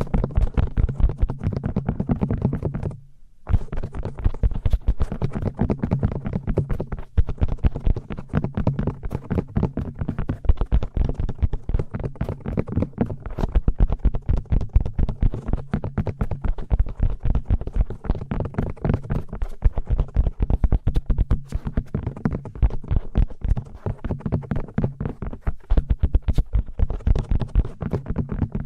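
Rapid, dense tapping and rubbing close to the microphone, an ASMR trigger sound, with a brief pause about three seconds in.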